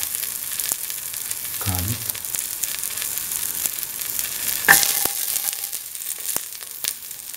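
Shallots and ginger sizzling and crackling in hot oil in a stainless steel pan. About two-thirds of the way in there is a sharp metallic clink with a brief ring as garlic cloves go into the pan.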